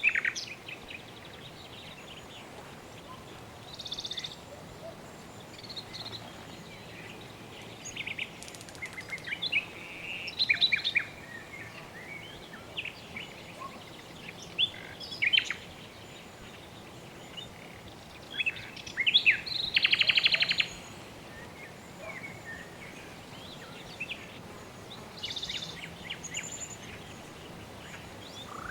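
Several birds chirping and calling in scattered short phrases, with a rapid buzzy trill about two-thirds of the way in, over a steady soft background hiss.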